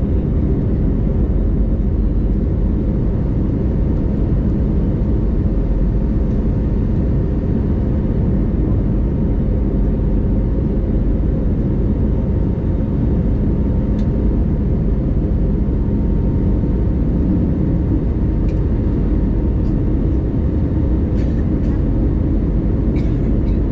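Steady low cabin drone of an Airbus A320neo, engine and airflow noise heard from inside the passenger cabin, with a faint steady whine. A few faint clicks sound near the end.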